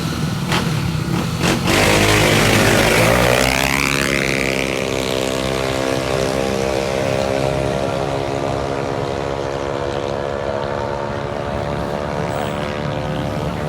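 Drag-racing CVT scooters at full throttle passing close by. The engine note peaks about two seconds in, drops in pitch as they go past, then holds as a steady drone fading into the distance.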